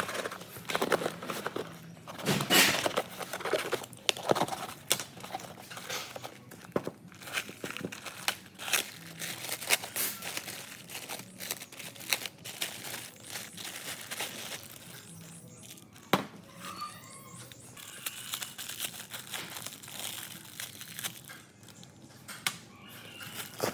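Irregular crinkling and rustling with many small clicks and taps, busier in the first half and sparser later.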